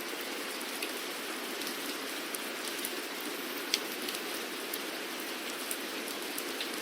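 Steady rain falling, a even hiss with individual drops ticking sharply here and there; one louder drop lands just past the middle.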